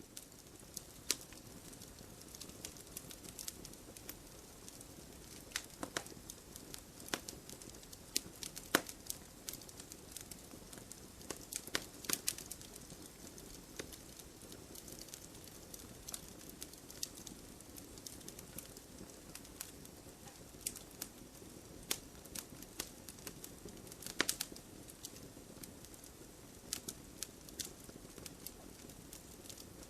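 Wood campfire burning: a steady low hiss under irregular sharp crackles and pops, with a few louder snaps scattered through.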